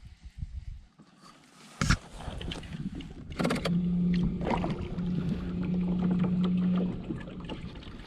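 Fishing kayak getting under way: a sharp knock about two seconds in, then water noise along the hull and a steady low hum from about three and a half seconds in, broken once, stopping about a second before the end.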